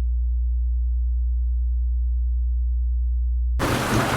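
A steady, very low pure tone, a deep hum, that cuts off abruptly about three and a half seconds in. Heavy rain starts at once in its place.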